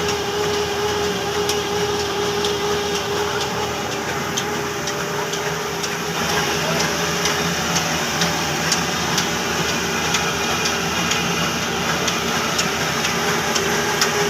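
Old Hornsby-type black diesel engine running a mini rice mill: a steady mechanical din with a constant hum and a regular ticking about two to three times a second.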